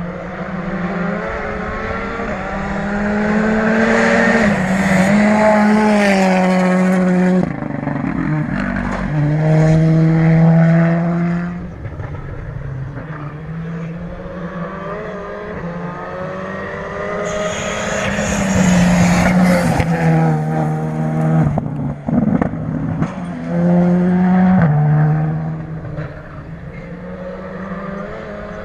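Rally car engine at full throttle on a gravel stage, revving up and changing gear several times, its pitch stepping at each shift. It gets louder twice as it comes closer, then fades.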